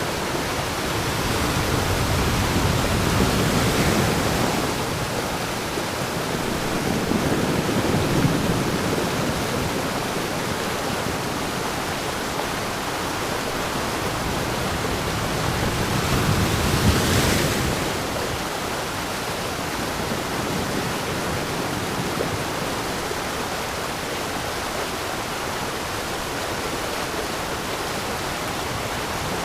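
Waterfall rushing steadily, a continuous full water noise that swells a little louder a few times.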